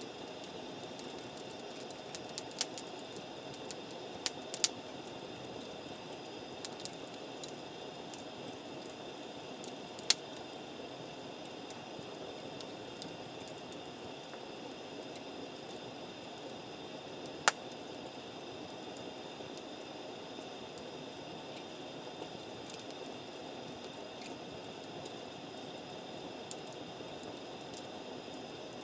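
Wood campfire burning with a steady low hiss and sharp pops now and then: a small cluster a few seconds in, then single loud pops near the ten- and seventeen-second marks.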